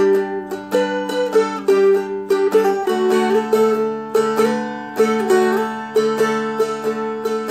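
Seagull Merlin, a four-string fretted dulcimer-style instrument, played with picked melody notes over ringing drone strings. The bass note and chord shift lower about three seconds in.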